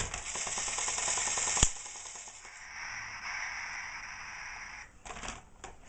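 Toy train running on its track: rapid clicking clatter for about a second and a half, cut off by one sharp click, then a steady hiss and a few scattered clicks near the end.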